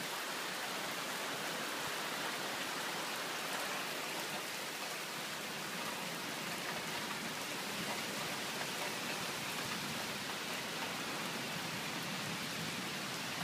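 Heavy thunderstorm rain falling steadily, a constant even hiss with no distinct thunderclaps.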